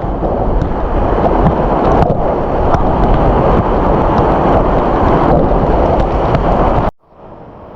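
Loud, steady rushing of a waterfall close by, with a deep rumble buffeting the microphone. It cuts off abruptly near the end, and a quieter rush of water follows and slowly grows.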